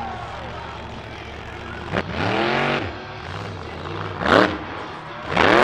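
Monster truck engine running with three hard revs, about two, four and five and a half seconds in, each rising and falling in pitch, the last the loudest.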